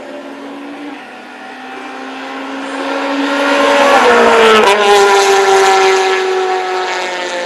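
A racing vehicle's engine passing at speed. It swells over a few seconds, drops sharply in pitch about four and a half seconds in as it goes by, then fades away.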